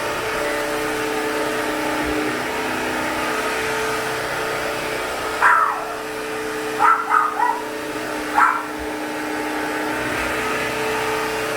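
Bissell CrossWave Cordless Max wet-dry vacuum-mop running steadily over a hard floor, its motor giving a constant hum and whine. About halfway through, a few short high yelps cut through it in quick succession.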